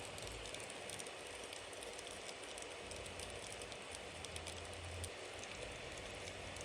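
Bonfire burning: a steady hiss of flames with frequent small crackles and pops from the burning wood.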